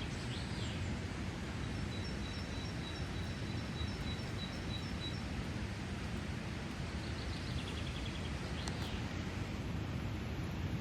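Steady rush of river water tumbling over a waterfall. A small bird sings a run of high, evenly repeated notes about two seconds in, with brief chirps near the start and again about eight seconds in.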